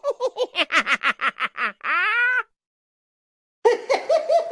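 A high-pitched cartoonish laugh sound effect: a rapid run of about a dozen short 'ha' syllables, ending in one long drawn-out note that rises and falls. After a second's pause, another burst of laughter starts near the end.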